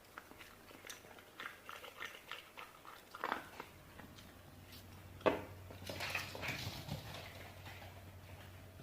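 Shiba Inu chewing and biting, heard as soft scattered clicks and rustles, with a sharper knock about five seconds in.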